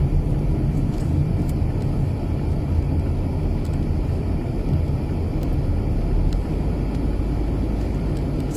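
Steady low rumble of a car driving, heard from inside the cabin: engine, tyre and road noise, with a few faint ticks.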